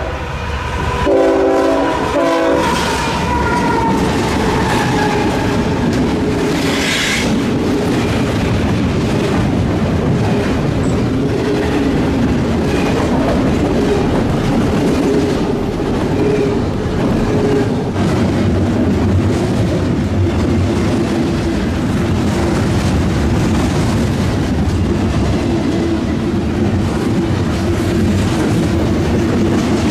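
A passing train's multi-note horn sounds two blasts in the first couple of seconds. The train then goes by close at hand, its wheels rumbling and clattering steadily over the rails.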